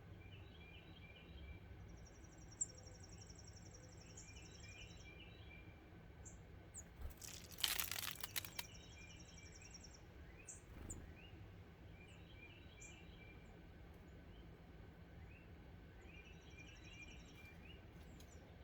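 Small wild birds chirping at a feeder, with a high buzzy trill heard three times. A brief loud rustle of several quick strokes comes about seven to eight seconds in.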